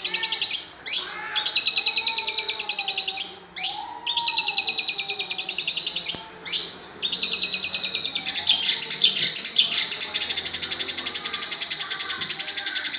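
Long-tailed shrike (cendet) singing a mimicked repertoire of lovebird and sparrow calls: fast, rattling high trills broken by sharp single calls, then one long unbroken trill from about eight seconds in.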